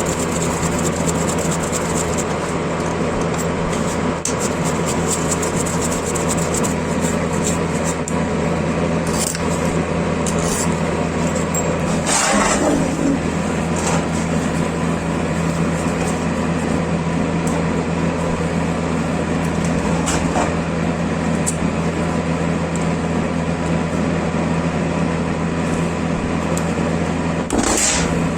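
Electric power tool motor running steadily with a constant hum, broken by a few brief louder scraping sounds.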